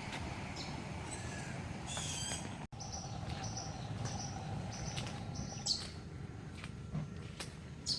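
Birds chirping over steady background noise. After a brief dropout about three seconds in, a short high chirp repeats about twice a second for a few seconds, and a few sharper chirps follow near the end.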